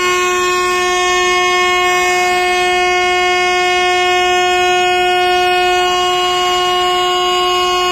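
A WAP-7 electric locomotive's horn sounding one long, loud blast: a single steady note held unchanged for several seconds after an abrupt start.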